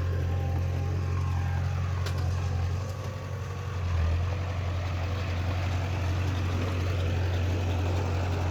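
Diesel engine of heavy earthmoving machinery running steadily with a deep drone, easing off briefly about three seconds in and picking up again at about four seconds.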